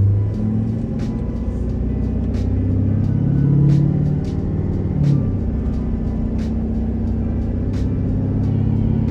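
Ford 6.7 Powerstroke V8 turbodiesel running through a 5 inch straight-pipe exhaust, heard inside the cab as a deep drone; it is throttled up a little a few seconds in and eases off again about halfway through. Light sharp clicks come every second or so over the drone.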